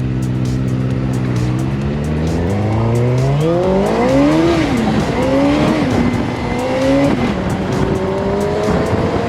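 Suzuki GSX-R 600 inline-four motorcycle engine in a road-going go-kart on the move. It holds steady, revs up hard and eases off about four seconds in, revs up again and drops back about seven seconds in, then settles at a steady lower speed.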